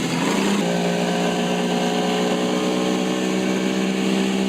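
Boat engine running steadily, its pitch stepping up slightly about half a second in and then holding.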